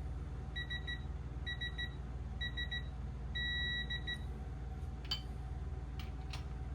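Electronic torque wrench beeping as a main-cap bolt is tightened: three short groups of quick high beeps about a second apart, then one longer steady beep about three and a half seconds in, the signal that the set torque of 30 foot-pounds has been reached. A few sharp clicks follow.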